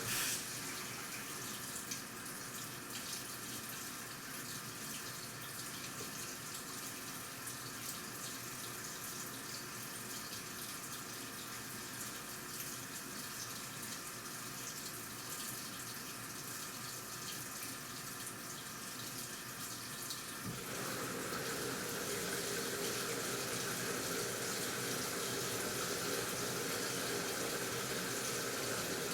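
Water running into a washing machine's tub, a steady splashing rush. About two-thirds of the way through the sound shifts and grows louder, as the flow or the water level in the drum changes.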